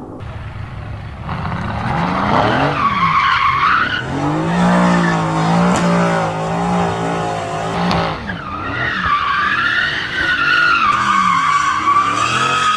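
Mercedes-AMG GT S twin-turbo V8 with an ASG exhaust doing a burnout: the tyres squeal with a wavering pitch while the engine is held at high revs. The squealing starts about a second and a half in, gives way to a steady engine note mid-way, and comes back strongly for the last few seconds.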